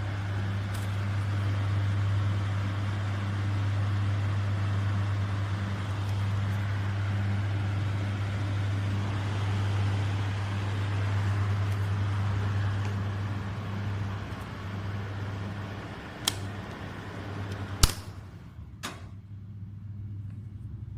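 10-inch exhaust fan running: a steady electric motor hum under a rush of moving air. The air noise eases after about 14 s, and a few sharp clicks come in the last five seconds, the one near 18 s the loudest.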